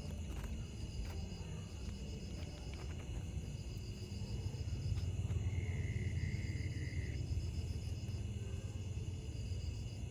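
Night insects calling: high pulsed trills repeating in bursts of about a second over steady high-pitched drones, with a lower trill about six seconds in and a low rumble underneath.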